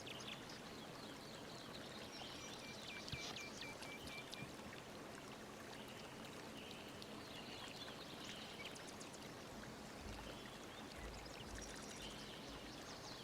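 Faint, steady rush of flowing water with birds chirping over it. About two seconds in, a bird repeats a short high note about eight times in quick succession.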